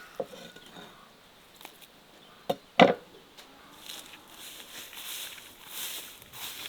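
A few sharp chopping knocks on wood, the loudest about three seconds in. Then a soft crackling hiss builds.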